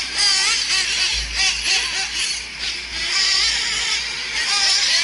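Several nitro RC trucks' small two-stroke glow engines revving together, their high-pitched whine rising and falling as they accelerate and back off around the track.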